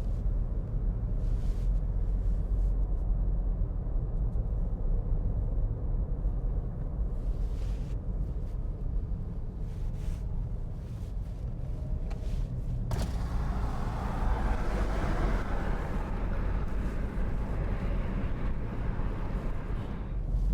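Steady low rumble of a car driving, heard from inside the vehicle. About two-thirds of the way through, a louder hiss joins in and keeps on.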